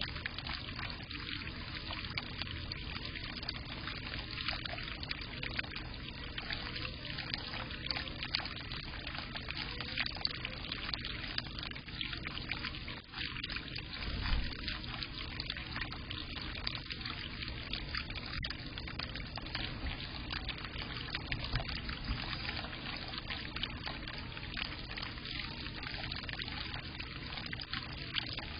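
Water pouring and trickling steadily into a bird bath, with a brief low thump about 14 seconds in.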